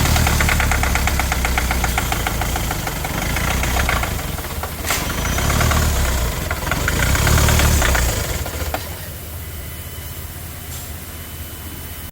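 2020 Kia Sportage diesel engine running rough, with a fast, even knocking clatter over a heavy low hum: the rough-running, shaking engine condition. About eight seconds in, the knocking gives way to a quieter steady hum.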